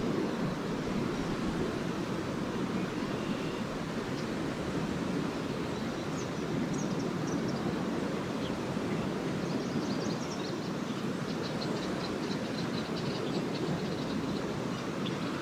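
Small lake waves washing steadily onto a sandy beach, a constant rushing wash. Faint high twittering of swallows sits over it, thickening into a run of quick chirps from about ten seconds in.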